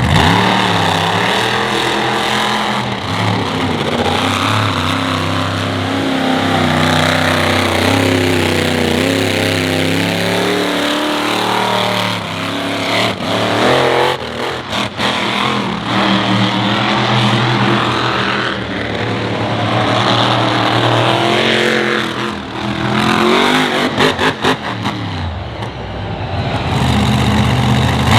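Monster truck engine revving hard, its pitch rising and falling again and again, with a cluster of sharp knocks about halfway through and again near the end.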